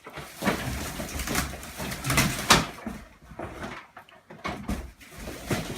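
Handling noise from unpacking an old upright vacuum cleaner: scraping and rustling with several short knocks as its cover is pulled off and it is moved about.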